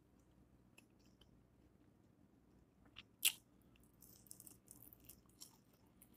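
A person eating barbecued steak held in the hands: faint chewing, with one sharp click from the mouth about three seconds in and soft, scattered chewing noises after it.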